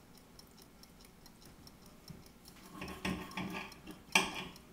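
A clock ticking steadily and faintly, about four ticks a second. A few soft knocks come about three seconds in, and a sharp clink near the end is the loudest sound.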